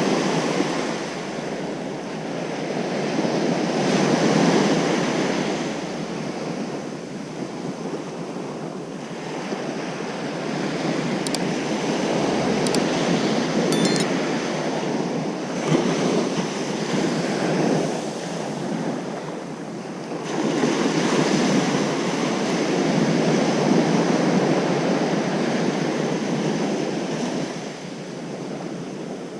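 Ocean surf breaking on a beach. A wash of noise swells and ebbs every few seconds as each wave comes in and draws back.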